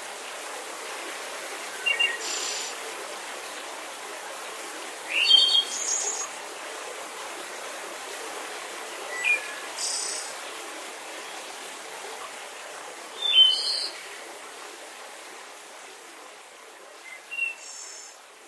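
Birds calling: five brief chirped calls a few seconds apart, over a steady hiss.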